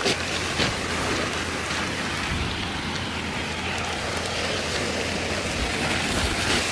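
Steady rushing of heavy rain, with a few faint taps near the start.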